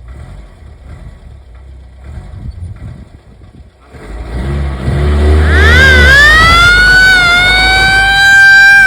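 Fiat Campagnola military off-roader with its engine running low, growing louder about four seconds in. A shrill siren then winds up, rising steeply in pitch, and holds a loud, high, slightly wavering note.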